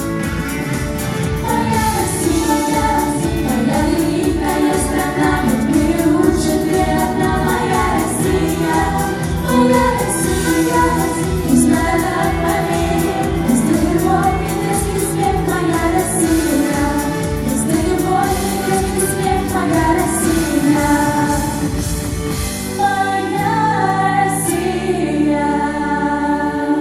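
A song sung over instrumental accompaniment with a steady beat. Near the end the beat drops out and the music winds down on held chords.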